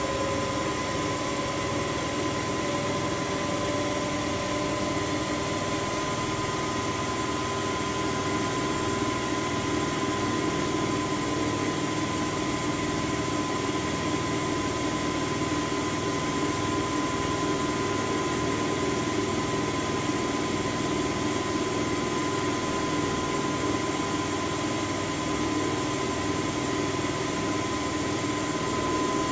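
Washing machine running with a steady mechanical hum and a steady high whine; a fainter tone rises slightly in pitch over the first few seconds.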